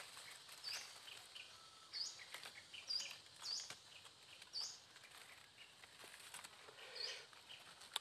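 A small bird chirping: about half a dozen short, high, upward-flicking chirps at uneven intervals, faint, with light rustling of leaves.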